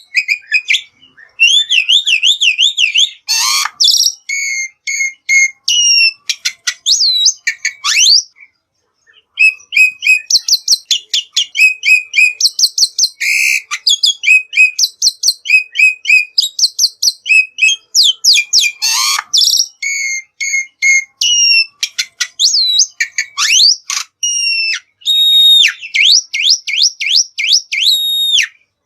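Black-winged starling (jalak putih) singing a varied song of fast repeated chips, whistled trills and rising and falling whistles, with short pauses about a second in and about nine seconds in.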